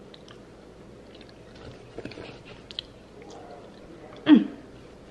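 A person chewing a mouthful of roasted potato, with soft wet mouth clicks and smacks, then a short voiced 'mm' with a falling pitch about four seconds in.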